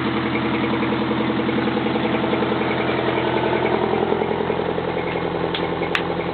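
Detroit Diesel 8V-71 two-stroke V8 diesel engine of a 1972 Oren pumper fire truck idling steadily, with a fast even pulse. A single sharp click about six seconds in.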